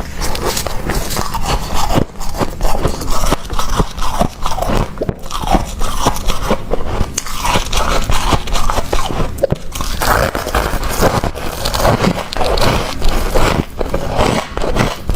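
Freezer frost crunching and scraping in a dense, continuous run of crackles.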